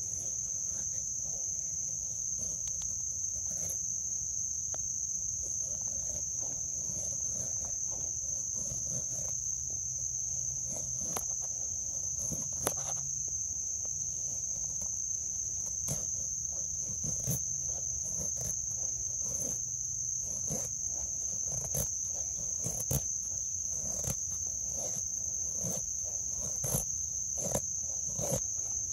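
A steady high-pitched insect drone, with short irregular scraping strokes of the Adventure Sworn Voyager knife's stainless blade shaving curls off a stick to make a feather stick.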